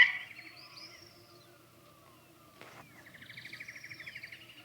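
Faint bird calls: a few short chirps and gliding whistles, then a rapid trill for about two seconds from the middle on. A single sharp click sounds about two and a half seconds in.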